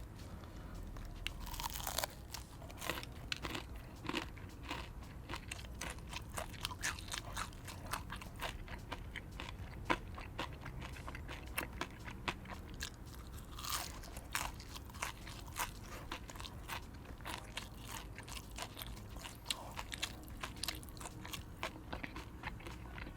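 A person biting into and chewing the crunchy cereal-coated crust of fried chicken, a dense run of sharp crackles and crunches. Bigger crunches come a couple of seconds in and again just past the middle.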